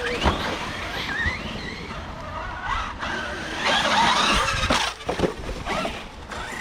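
Several large electric RC trucks driving together over rough ground, their brushless motors whining up and down in pitch as the throttle is worked. Sharp knocks of the trucks hitting the ground come now and then, the loudest near the start and near the end.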